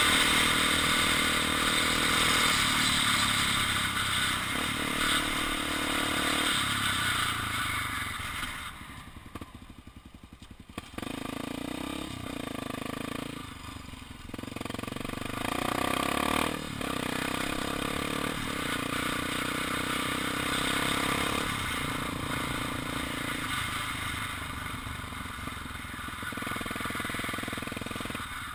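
Honda XR Tornado trail motorcycle's single-cylinder four-stroke engine running under way, its pitch stepping up and down through gear changes, with a steady wind hiss. About a third of the way in it drops away to a much lower level for a couple of seconds, then picks up again.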